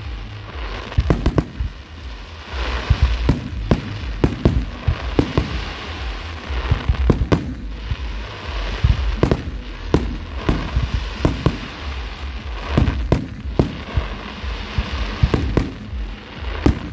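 Fireworks display going off: a rapid, irregular run of sharp bangs, several a second, with a continuous rumble and hiss between them.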